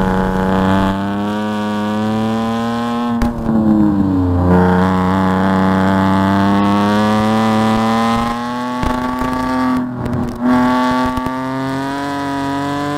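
BMW E46 race car's engine heard from inside the cabin at high revs, pulling steadily under throttle. About three seconds in the revs drop for a second and then pick up again. Near ten seconds there is a short break before it climbs again, the pattern of a lift or a gearshift.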